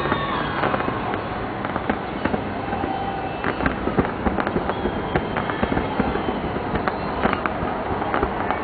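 Fireworks display bursting in an irregular string of sharp bangs and crackles, several a second, over a steady background din.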